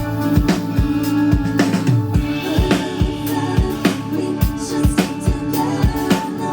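Band music with a steady drum-kit beat, about two hits a second, over held bass notes.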